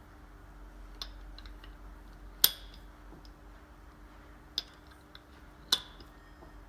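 Four sharp, separate clicks or light knocks, the loudest about two and a half seconds in, over a faint steady hum.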